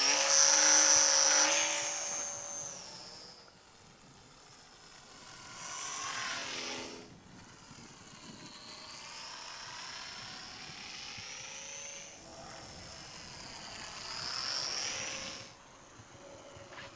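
Electric motor and propeller of a Top RC Hobby 450mm mini SF260 RC model plane in flight: a high whine that slides up and down in pitch as the plane passes. It is loudest in the first two seconds, and swells again around six seconds and near fifteen seconds.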